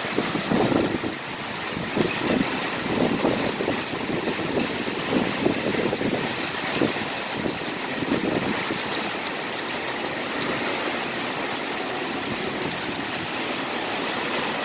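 Heavy rain falling in a steady hiss, with irregular splashing and knocks through the first half that then settle into the even hiss.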